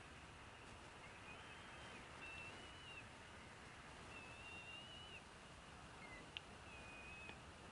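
Faint, thin whistled bird calls: several held notes of about a second each, over a steady hiss, with a single click about six seconds in.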